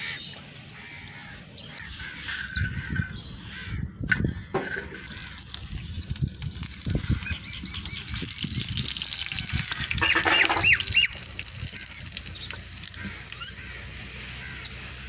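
Birds calling with short, repeated calls, the clearest a quick run of about five calls some ten seconds in, over a steady hiss.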